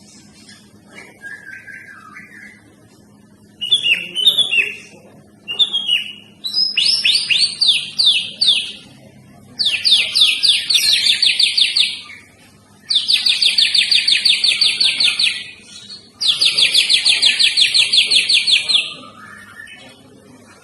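White-rumped shama (murai batu) singing: a soft warble, then loud whistled phrases, then four long rapid-fire runs of repeated notes at about eight a second, each lasting two to three seconds.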